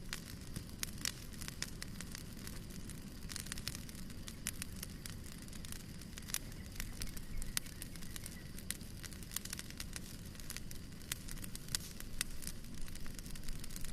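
Wood fire burning in a fireplace, with frequent irregular sharp crackles and pops over a steady low rumble of flames.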